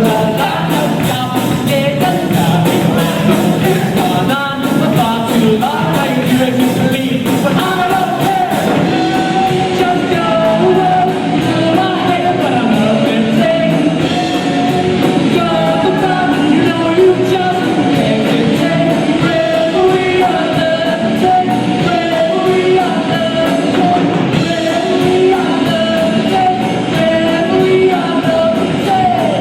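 A rock band playing a song with a lead singer, loud and continuous.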